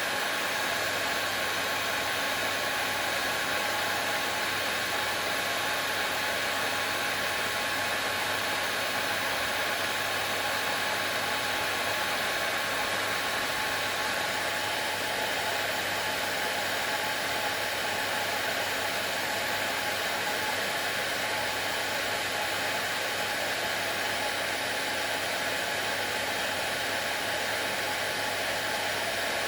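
Hair dryer running steadily: a continuous rush of air with a steady motor hum under it.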